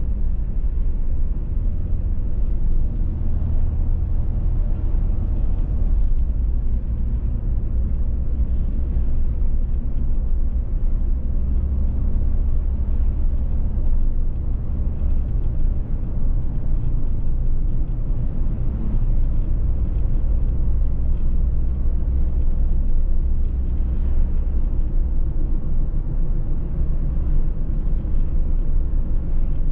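A car driving at a steady speed: a continuous low rumble of engine and road noise that holds level without changes.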